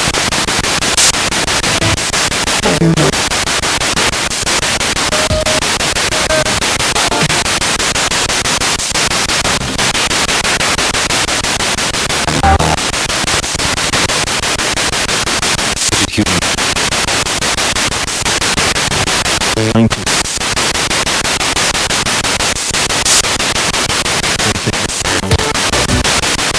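Spirit box radio sweeping rapidly through stations: loud continuous static broken by brief snatches of voices and music, with short dropouts and clicks as it jumps between frequencies.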